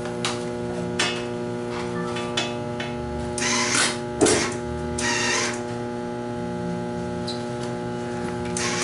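Arc welder's transformer humming steadily, with a few sharp clicks and three short bursts of hiss a little past the middle.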